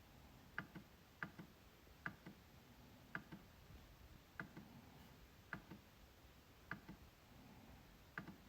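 MacBook trackpad being clicked about eight times at uneven intervals, each click a sharp press followed closely by a softer release click.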